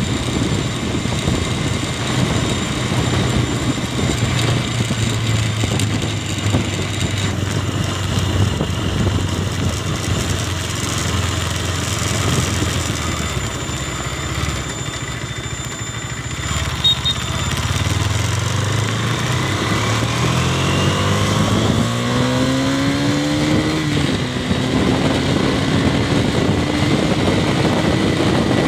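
Single-cylinder engine of a KTM Duke motorcycle heard from the saddle while riding, under a rush of wind noise. The engine note settles low near the middle, then the bike pulls away with the pitch rising through the gears, dropping at a shift about two-thirds of the way in and climbing again.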